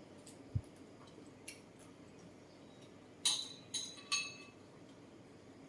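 Tableware clinking three times in quick succession a little past the middle, each clink ringing briefly, after a soft low thump about half a second in.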